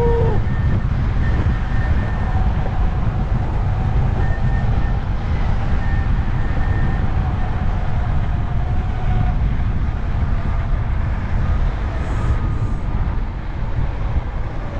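Steady wind rumble on the microphone and road noise from a scooter being ridden, with a faint steady whine above it.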